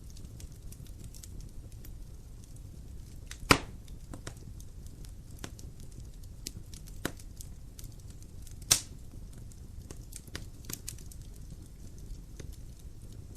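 Wood fire burning in a fireplace, with a steady low rumble and scattered light crackling. Two loud, sharp pops come about three and a half seconds in and near nine seconds, with a smaller one between them.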